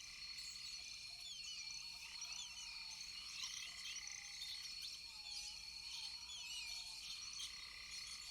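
A chorus of frogs calling: many short chirps overlapping over a steady high-pitched drone, with a few lower drawn-out calls.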